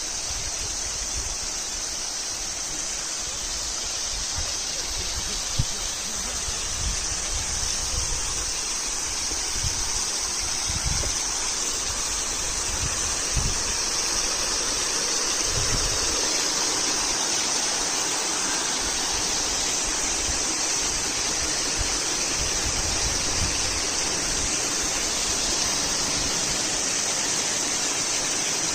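Urach waterfall: water falling and splashing in a steady rush, slightly louder about halfway through, with scattered low rumbles in the first half.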